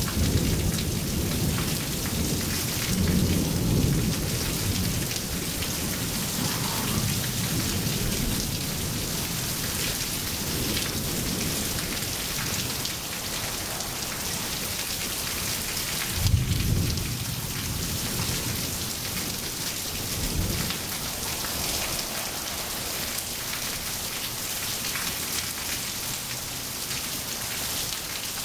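Steady rain falling on pavement, with low rolls of thunder through the first several seconds and again a little past halfway, the loudest opening with a sharp crack.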